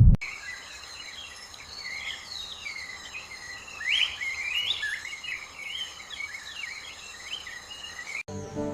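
Chirping, warbling bird calls over a steady high insect drone, like crickets. It cuts off abruptly near the end, where music comes in.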